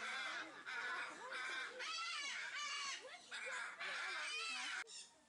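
Hyacinth macaws screeching: a run of about seven loud, harsh calls in quick succession, the last one longest and breaking off suddenly. The birds are agitated, which the watchers put down to an intruder in their cage.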